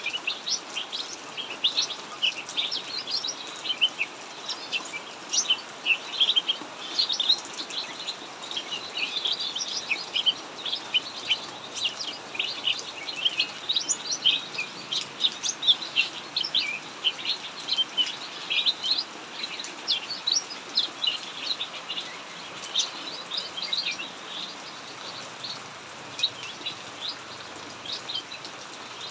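Cucak mini songbirds singing non-stop, a dense stream of rapid high chirps and short trills from several birds. It runs over the steady hiss of heavy rain.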